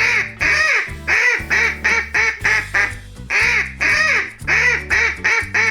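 A duck quacking in quick runs of short quacks, about three a second, with a brief pause near the middle, over steady background music.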